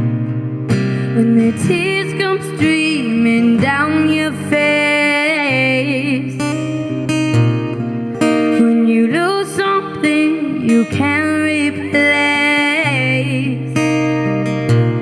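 Background song: acoustic guitar accompaniment under a melody that wavers like a singing voice.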